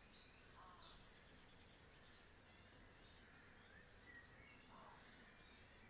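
Near silence: faint outdoor ambience with scattered distant bird chirps and a faint insect buzz.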